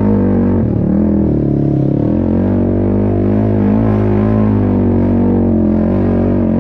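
Racing ATV (quad) engine running hard at high revs. It eases off and wavers briefly about a second in, then pulls steadily again.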